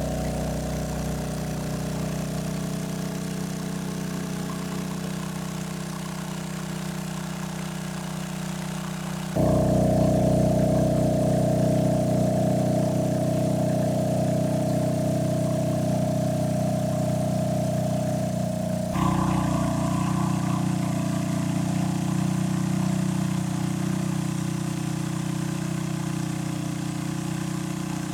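Small engine running steadily at a constant speed, its pitch and loudness jumping abruptly twice.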